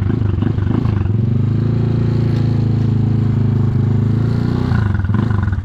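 Motorcycle engine running at a steady speed under way. It is rougher and uneven in the first second and again near the end.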